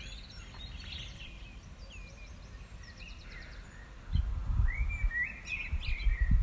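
Several songbirds singing and chirping, with many short warbling and whistled phrases. From about four seconds in, a louder, irregular low rumble of wind buffeting the phone's microphone joins them.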